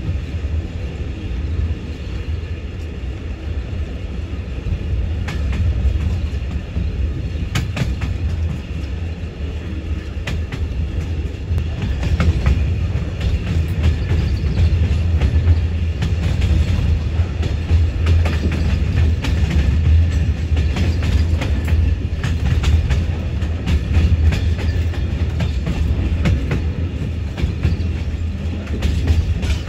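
Passenger train running on the rails: a steady low running noise with scattered clicks of wheels over rail joints.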